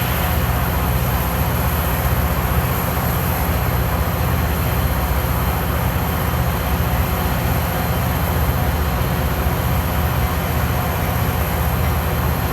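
Diesel locomotive engine running steadily at a standstill, a low, evenly pulsing rumble with no change in pitch or loudness.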